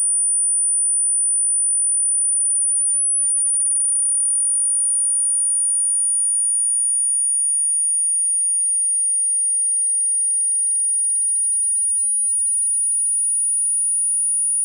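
Steady, high-pitched pure sine tone, a speaker-cleaning tone played at full volume so the vibration drives water droplets and dust out of a phone speaker grill.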